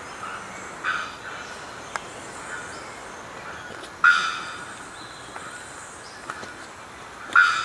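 A bird giving loud, sharp calls, three of them about three seconds apart, each starting abruptly and fading quickly.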